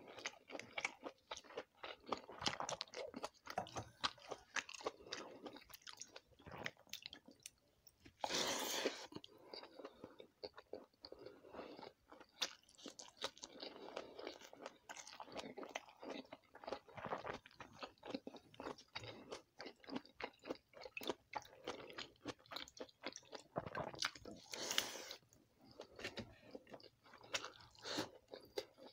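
Close-miked chewing of pakhala bhata (fermented water rice) and fried vegetables eaten by hand: continuous wet, smacking mouth sounds with some crunching. Two louder, brief bursts come about eight seconds in and again about sixteen seconds later.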